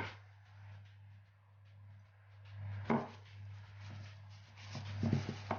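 Light knocks and taps of food being handled on a kitchen counter: one about three seconds in and a short cluster near the end, over a steady low hum.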